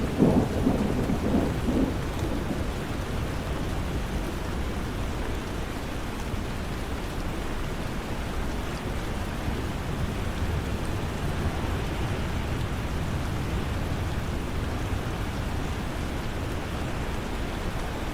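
Steady rain falling, with a rumble of thunder right at the start that dies away after about two seconds.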